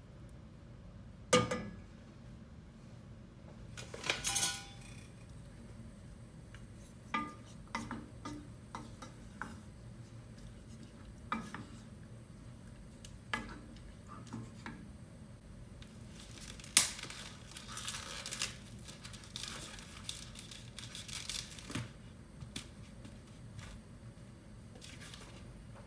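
Dishes and cutlery clinking and being set down in a kitchen: scattered sharp knocks and clinks, with a busier stretch of clatter about two-thirds of the way through.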